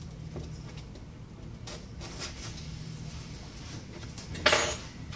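Light clicks and handling noise from work at a bench, with one loud, short, sharp scrape or snap about four and a half seconds in.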